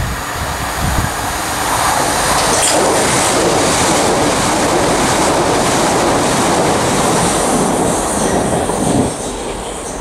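Electric multiple-unit passenger train passing close beneath at speed: a steady rush of wheel and rail noise that builds over the first two seconds, holds, then drops away suddenly about nine seconds in as the last car clears.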